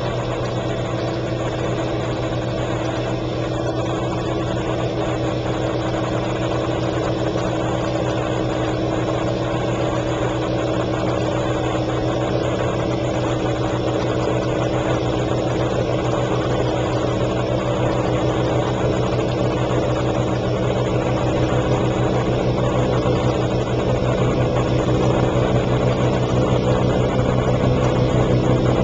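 1957 James portable dishwasher running: a steady electric motor hum under the rush of water spraying inside the tub, growing a little louder toward the end.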